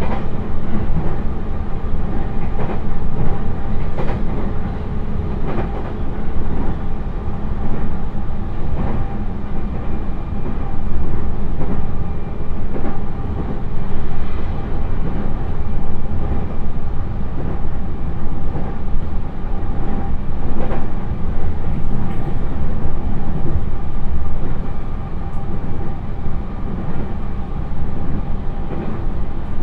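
Interior running sound of a JR East E129 series electric train at about 80 km/h on long-welded rail. It is a steady rolling roar carrying the droning hum that freshly ground rail gives off, with occasional faint clacks.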